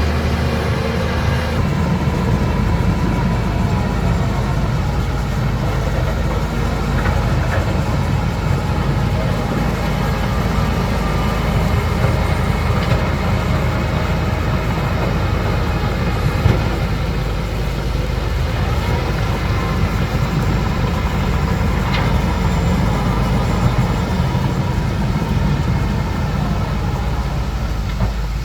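Bulldozer's diesel engine running steadily, with a couple of sharp clanks.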